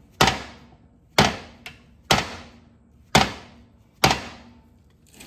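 One-pound hammer striking a steel pin used as a punch, five hard metallic blows about a second apart with a ringing decay after each and a lighter tap between the second and third, driving a lawn mower deck spindle shaft out of its bearings.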